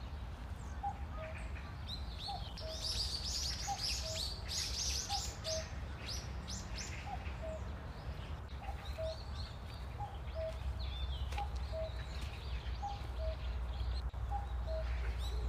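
Wild birds calling: a low two-note call, the second note lower, repeated about once a second throughout, with higher chirps and twittering over it, busiest in the first half.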